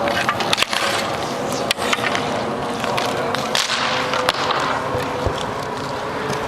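Hockey play on the rink: skates rolling and scraping on the surface, with sharp clacks of sticks and the puck striking sticks and boards scattered throughout.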